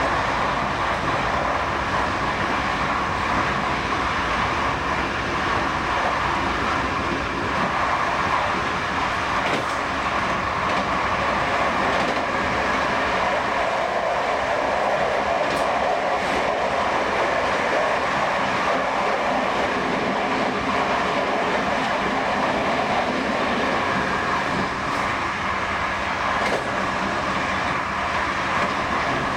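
Passenger train running steadily along the line, heard from on board: an even rolling noise of wheels on rails, with a few faint clicks scattered through it.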